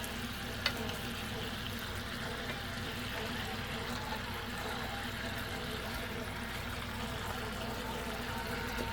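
Chicken in an achuete glaze simmering in a pan, a steady bubbling hiss, with a single click just under a second in.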